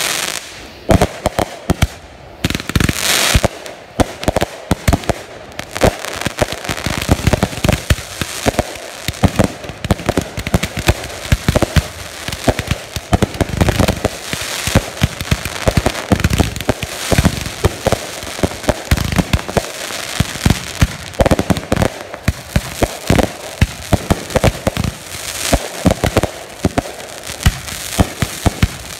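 Consumer firework cakes firing a dense, continuous barrage of launch shots and aerial bursts, with sharp bangs and crackling one after another with no real break.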